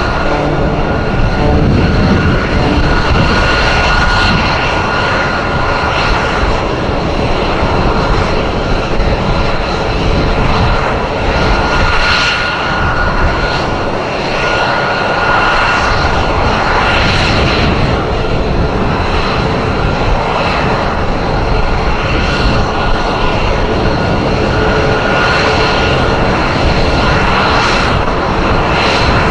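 F-22 Raptor's turbofan jet engines running loud and steady through a flying demonstration, with a continuous high whine over the noise.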